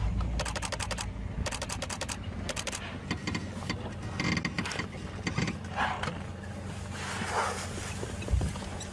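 Three rapid runs of sharp mechanical clicks in the first three seconds, each about half a second long, over a steady low hum.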